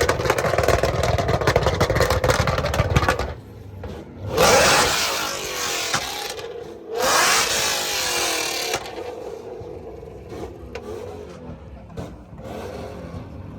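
A car engine revving hard: a long stretch at high revs with rapid crackling, then two shorter revs a couple of seconds apart that rise in pitch.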